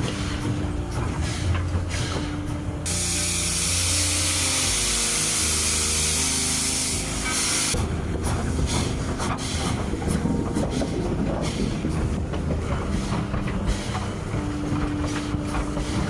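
Steam locomotive with a loud, steady hiss of escaping steam that starts about three seconds in and cuts off abruptly about five seconds later. Before and after it, quick clicks and knocks of the working locomotive over a steady low hum.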